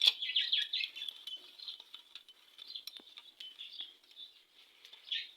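Light metallic clicks and clinks as a 10 mm bolt and hand tools are handled while fitting a motorcycle engine's timing chain guide, the loudest click right at the start. Birds chirp in short falling calls in the background.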